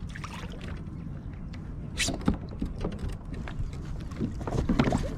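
Water splashing beside a kayak as a big redfish is held in the water to revive it, with a sharp splash about two seconds in and more splashing near the end, over a steady low rumble of wind on the microphone.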